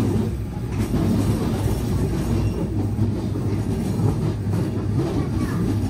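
Berner Oberland Bahn passenger train running along the track: a steady low rumble of the moving train.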